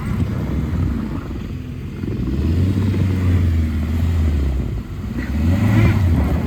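Tractor engine running while it clears snow: a low drone that swells about two and a half seconds in and again near the end, over a steady rumble.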